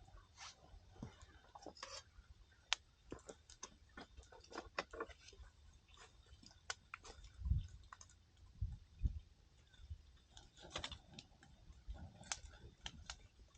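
Wood campfire crackling, with irregular sharp pops and snaps from the burning firewood and a few soft low thumps near the middle.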